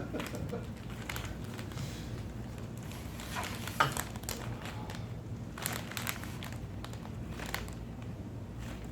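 Sporadic light crinkling and small clicks of food packaging and utensils being handled, over a low steady room hum.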